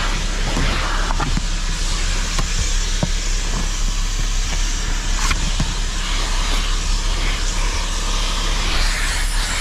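Vacuum cleaner running steadily while the car's interior is vacuumed, with a few short clicks and knocks of the nozzle picking up debris.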